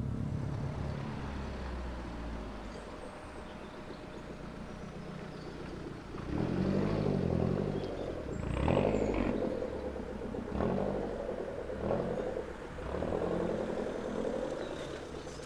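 A car engine running low for the first few seconds, then revved or accelerated hard in about five loud surges, each rising and falling in pitch.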